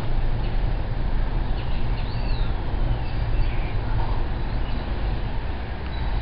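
Steady low outdoor rumble with a few faint bird chirps over it, one a short slurred note about two seconds in.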